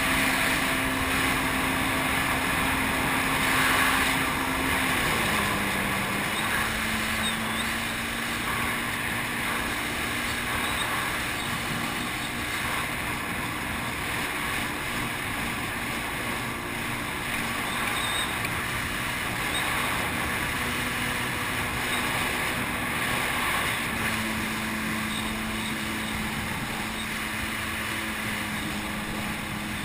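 Jet ski engine running at a steady cruising speed under a constant rush of water and wind. Its pitch drops slightly about five seconds in and then holds.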